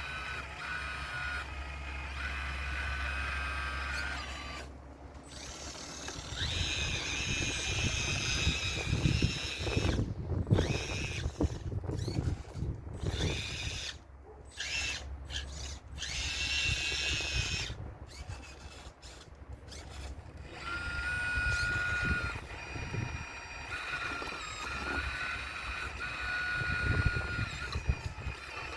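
RC model excavator's electric motors whining as the machine works, the pitch stepping up and down as its movements change, with stones knocking and clattering through the middle as the wall is broken down.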